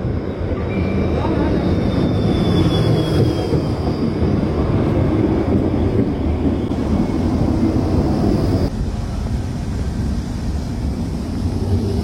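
Light-rail tram running along the track, a steady low rumble with a faint falling whine about two seconds in.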